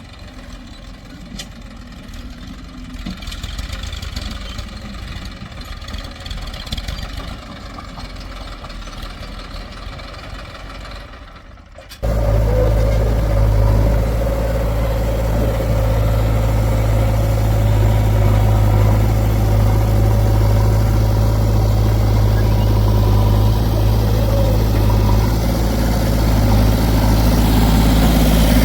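Heavy diesel machinery engine running, fairly quiet and distant at first. About twelve seconds in, it jumps abruptly to a loud, close, steady engine drone.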